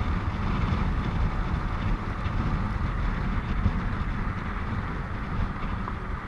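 Motorcycle riding on a highway: a steady rumble of engine, tyre and wind noise on the rider's microphone.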